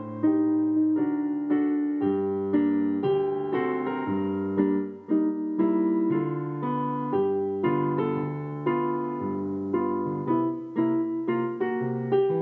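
Solo piano playing a slow tune in chords, with a new chord or note struck about every half second.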